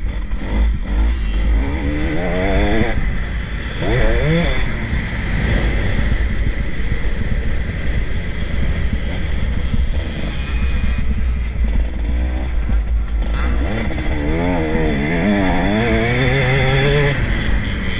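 Motocross bikes racing past, engines revving up and down in quick waves as they ride the track, over a steady low rumble; bikes come through about two to four seconds in and again, more strongly, from about fourteen to seventeen seconds.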